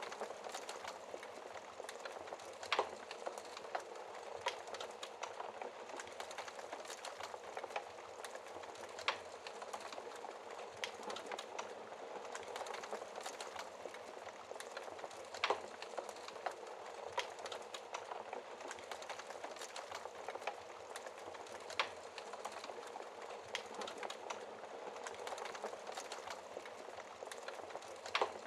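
Wood fire burning in a fireplace: a steady soft hiss with scattered crackles, and a sharper pop every few seconds.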